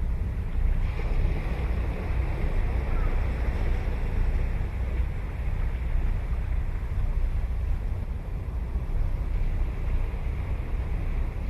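Ocean surf at a beach: a steady wash of breaking waves, with wind rumbling on the microphone underneath.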